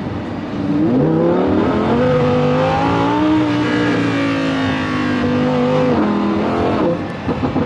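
Lamborghini V10 engine accelerating hard. Its pitch climbs from about a second in and rises again to a peak near three seconds, then it holds a steady note and falls away near the end.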